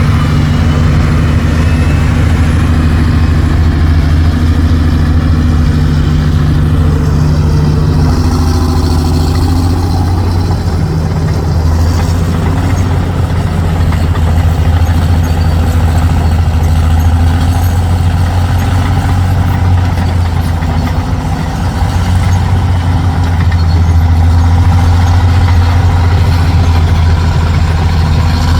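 Dump truck's heavy diesel engine running steadily at low revs, with a deep, even drone and small shifts in pitch.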